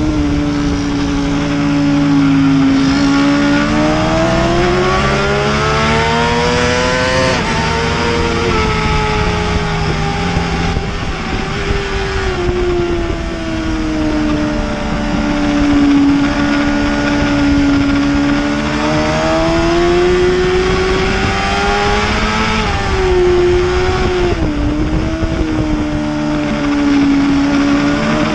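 Superbike racing motorcycle engine running hard at speed, its pitch climbing for several seconds and dropping sharply about seven seconds in, then rising and falling again through the rest.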